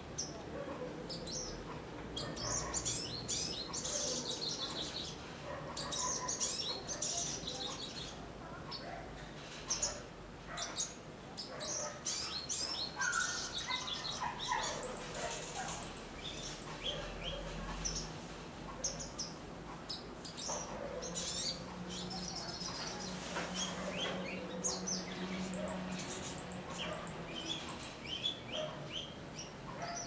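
Small birds twittering: many short, high chirps and trills in quick, uneven runs, coming and going throughout.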